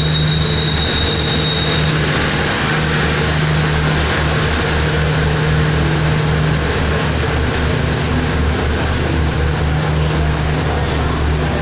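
Passenger train rolling slowly along a station platform, with a steady, loud low engine drone throughout. A thin high whine, like wheel or brake squeal, sounds over it for the first two seconds.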